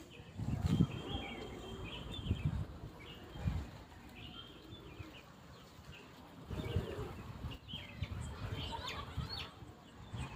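Birds chirping and calling, many short high chirps, with a few short low sounds among them.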